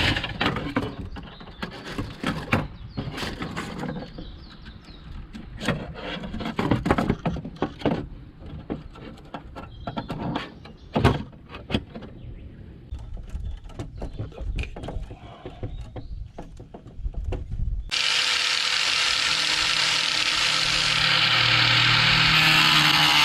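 Irregular metallic clicks, knocks and scrapes of stainless-steel sheet and rod parts being handled and fitted together by hand. Background guitar music comes in about three-quarters of the way through.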